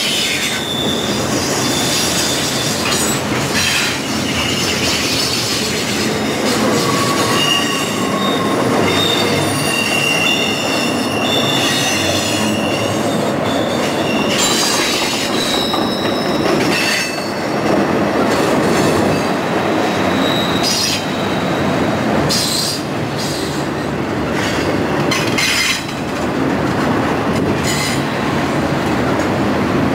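Double-stack intermodal container train rolling past: a steady rumble of wheels on rail, with high wheel squeal coming and going as the cars take the curve, and scattered clanks.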